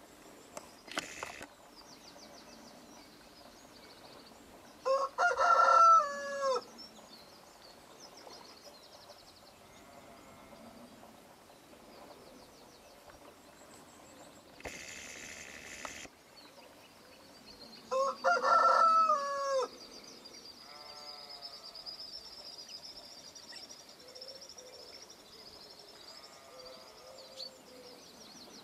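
A loud bird call rings out twice, each about a second and a half long and falling in pitch at the end, while small birds sing faintly in the background. A short hiss of noise comes between the two calls.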